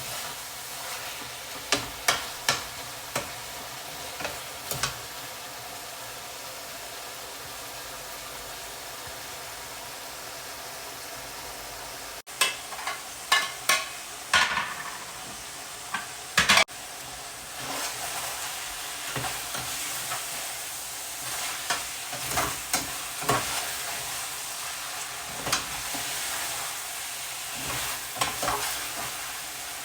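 Food sizzling as it fries in a pan, with a utensil knocking and scraping against the pan now and then as it is stirred. The sizzle gets somewhat louder in the second half.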